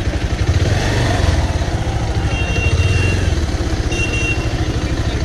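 Motorcycle engine idling steadily with an even low pulse while the bike stands still.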